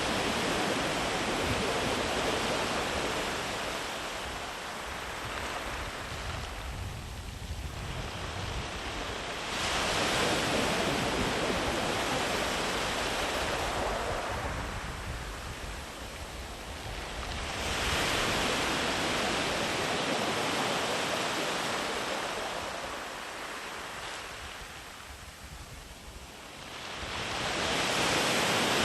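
Sea waves breaking and washing up a sandy beach: a steady hiss of surf that swells with each wave and ebbs between, about four surges eight to ten seconds apart.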